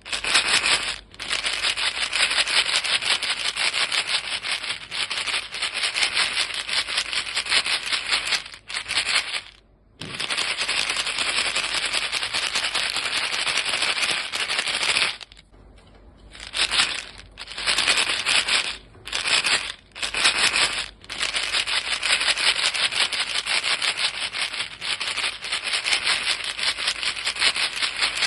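Chewing gum pellets rattling inside a small box shaken rapidly and steadily, a dense hissy rattle broken by a few brief pauses, the longest about halfway through.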